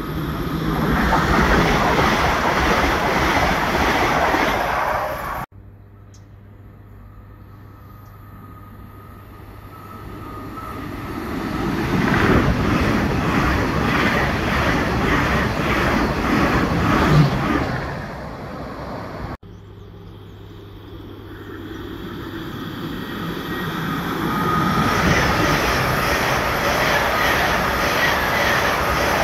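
Great Western Railway Hitachi Intercity Express Train passing through the station at speed, heard in three joined takes. Each swells to a loud rush of wheels and train noise, the middle one with a regular clatter of wheels on the rails. The sound cuts off abruptly twice where the takes are joined.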